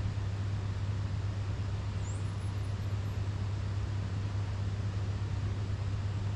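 Steady rush of water pouring from a power station outflow, with a constant low hum underneath.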